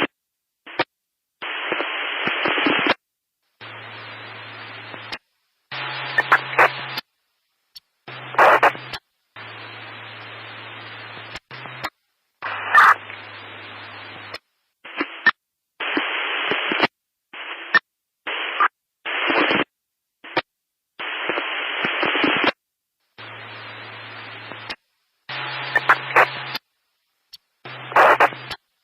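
Radio static hiss cutting abruptly in and out in bursts from a fraction of a second to a few seconds long, with dead-silent gaps between. Some stretches carry a low hum underneath, and there are sharp crackles and clicks.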